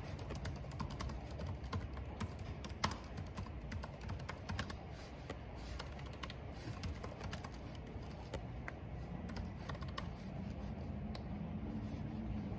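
Typing on a computer keyboard: a quick run of keystroke clicks that thins out in the second half, over a steady low rumble of wind.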